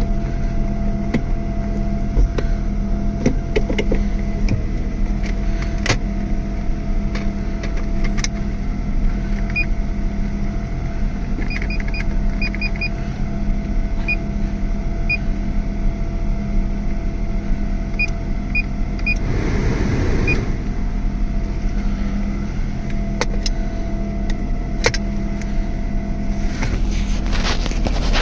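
Subaru SVX's 3.3-litre flat-six idling steadily. Over it come scattered clicks, a run of short high beeps through the middle, and a brief rush of noise about twenty seconds in.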